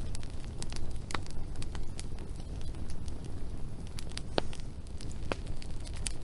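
Wood fire crackling, with sharp pops coming irregularly over a steady low rumble.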